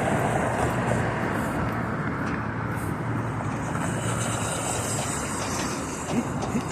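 Street traffic noise: a steady rush of road vehicles, slowly easing off.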